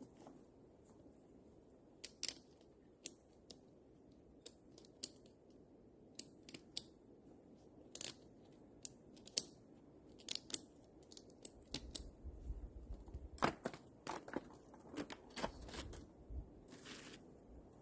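Irregular crunches and snaps, like footsteps and twigs underfoot as someone moves through the woods, growing denser in the second half, with a low rumble of wind on the microphone for a few seconds in the middle.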